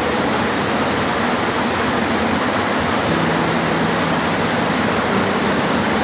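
Steady rain falling, an even hiss with no breaks, with a faint low hum coming in about halfway through for a second or two.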